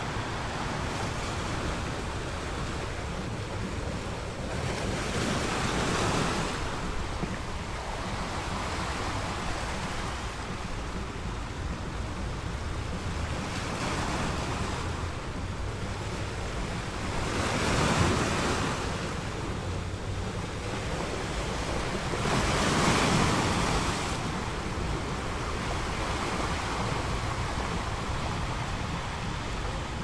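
Ocean surf: a continuous wash of waves, with bigger waves breaking and surging louder about six seconds in, again near the middle, and once more a few seconds later.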